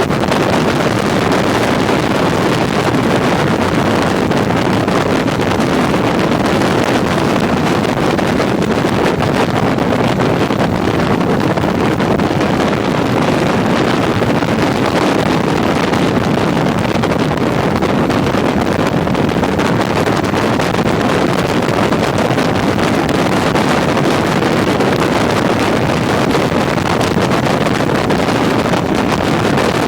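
Steady wind rush buffeting the microphone of a motorcycle on the move, with road noise underneath.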